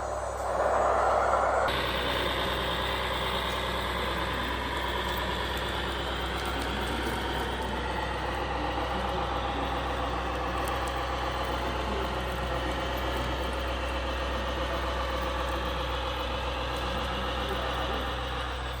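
RC construction truck's engine sound running steadily, with the pitch wavering a little. A reversing beep carries over at the start and stops about two seconds in.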